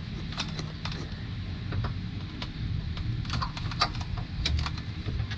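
Scattered light clicks and taps of hand tools and small metal bolts being handled during engine work. These sound over a low, steady background hum.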